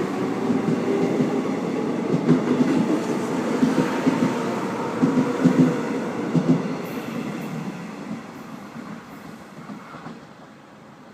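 Seoul Metro Line 1 resistor-control electric train pulling out of the station, wheels knocking over the rail joints in clusters. Its rumble fades away over the last few seconds.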